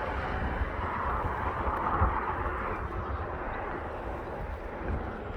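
Steady, smooth rumble of a TasRail freight train and its diesel locomotives moving away, with no clear wheel-on-rail clatter.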